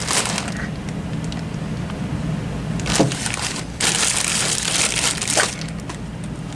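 Metal transmission parts and tools being handled on a workbench: a sharp clank about three seconds in, then rattling and scraping for a second or two, over a steady low hum.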